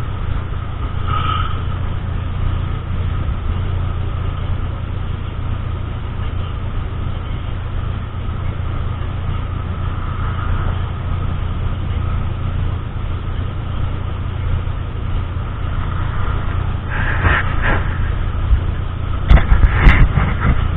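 Car cabin noise while driving: a steady low rumble of engine and road. Several sharp knocks come near the end, the loudest sounds here.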